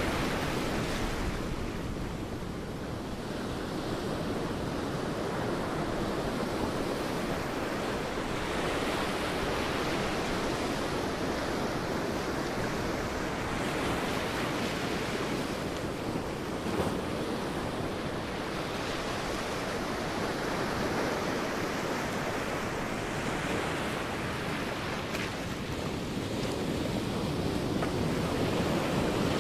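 Sea waves breaking and washing on a beach, the surf rising and falling in slow swells every several seconds.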